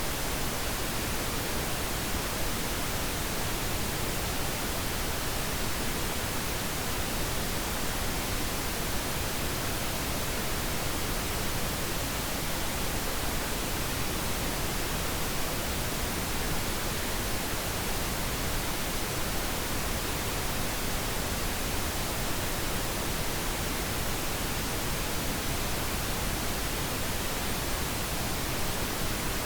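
Steady pink noise: an even, unchanging hiss across all pitches, used as a sleep sound for babies.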